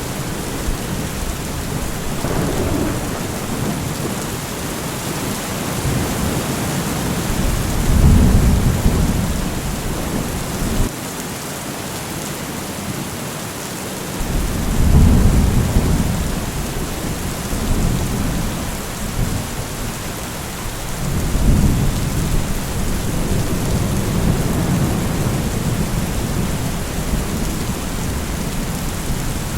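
Steady heavy rain with rolling thunder that rumbles up three times: about eight seconds in, about halfway, and again over several seconds in the last third.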